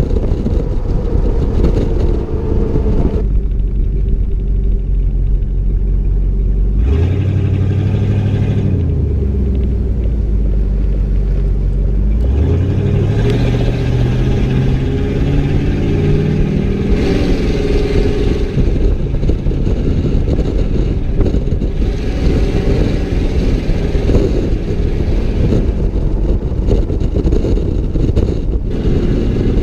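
Straight-piped exhaust of a 1992 Ford Bronco's 5.8-liter V8, loud and continuous. The engine pitch settles lower about seven seconds in, then climbs steadily for several seconds as it accelerates, and keeps rising and falling after that.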